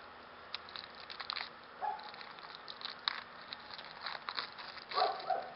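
Plastic wrapping on a suet cake being torn and peeled open, a run of irregular crinkles and crackles.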